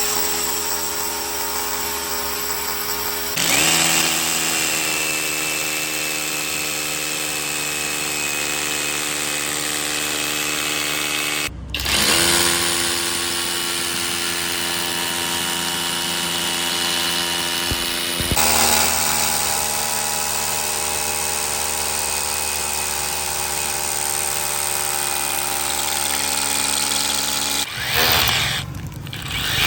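Yamasu MBT26P cordless SDS-plus rotary hammer drill running under test, a steady motor whine that shifts in tone a few times. It cuts out briefly about a third of the way through, then starts again, and stops shortly before the end.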